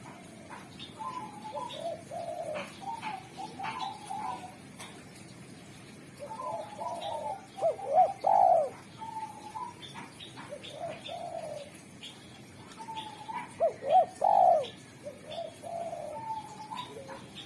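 Spotted dove cooing in repeated phrases, with two louder phrases about eight and fourteen seconds in. Short faint chirps of other birds sound between the coos.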